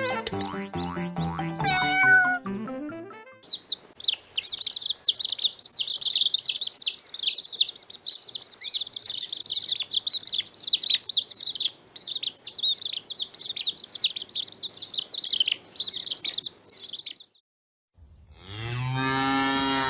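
A short musical jingle, then a long stretch of many high, overlapping chirps from a flock of birds. Near the end a cow begins a low, drawn-out moo.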